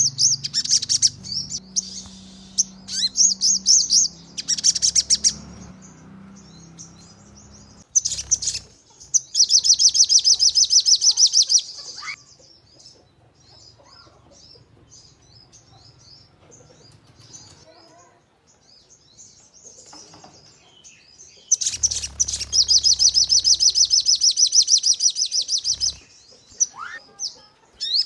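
Crested jay (sogon) calling in fast, dry rattling trills. There are short bursts at the start, a long loud rattle about 8 to 12 seconds in and another from about 21 to 26 seconds, with softer scattered chattering notes in between. These are the rapid-fire 'nembak' calls used as lure audio to provoke other sogon into calling.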